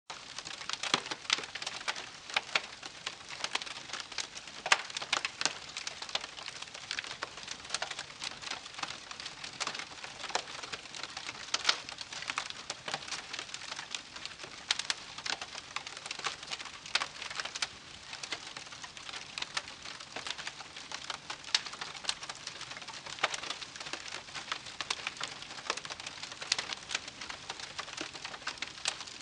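Wood campfire crackling: irregular sharp pops and snaps, several a second, over a soft steady hiss.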